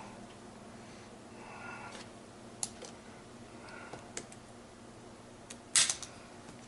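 Scattered light metal clicks and clinks of gearbox parts being handled as the tight 1–2 synchro hub assembly of a Ford 2000E gearbox is taken off, with a louder clatter of clicks about six seconds in.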